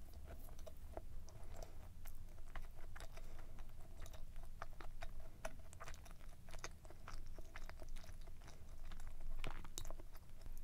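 Close-miked mouth sounds of a person chewing a dense, fudgy-chewy brownie muffin with mouth closed: a steady run of soft wet clicks and smacks, a little louder about nine seconds in.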